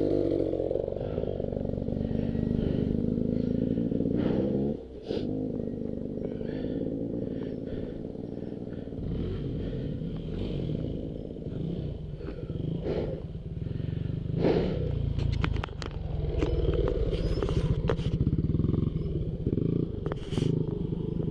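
Two-stroke dirt bike engine running while being ridden on a trail, the revs rising and falling with the throttle and briefly dropping off about a quarter of the way in. Clattering knocks come through the bike, more of them in the second half.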